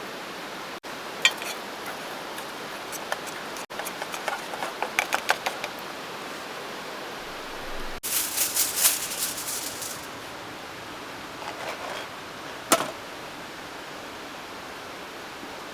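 Camp cooking handling sounds: bursts of crinkling and clicking, as of foil and cooking gear being handled, over a steady hiss. The sounds come in several short cut-together takes.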